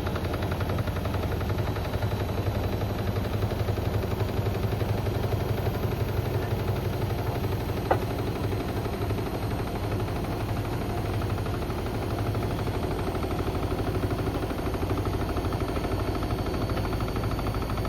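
Beko WM74135 washing machine running with a toaster and a kettle in its drum: a dense, rapid clatter over a steady low hum, with one sharp click about eight seconds in.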